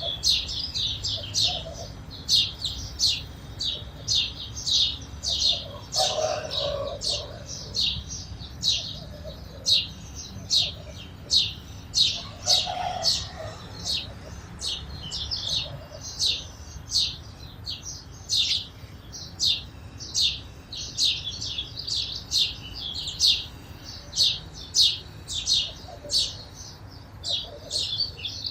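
Sparrows chirping continuously: short, sharp chirps, many in quick succession, about two a second, over a steady low rumble.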